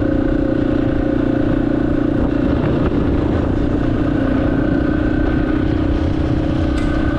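Yamaha XT250's single-cylinder engine running at a steady speed while riding, its note holding constant, with a rumble of wind noise underneath.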